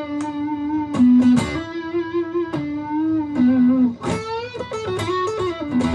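Aria STG-series electric guitar playing a lead line: single picked notes held with vibrato, then a quicker run of notes about four seconds in.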